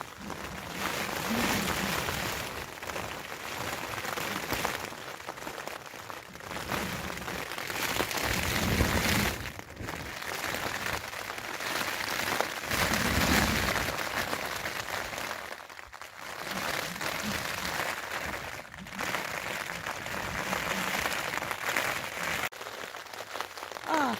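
Storm wind gusting against a tent and rain beating on the flysheet, heard from inside; the noise surges and eases every few seconds, with low buffeting thumps as the fabric is pushed in the strongest gusts.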